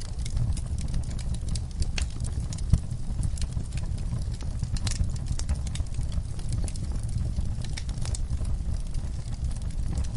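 Backyard fireplace fire crackling, with irregular pops over a steady low rumble of flames and one sharper pop about a quarter of the way in.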